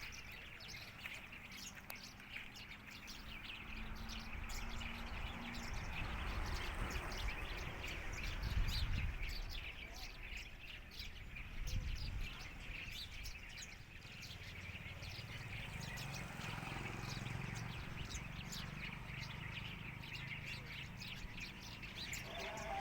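Small birds chirping: many short, rapid chirps repeating without pause, over a low rumble.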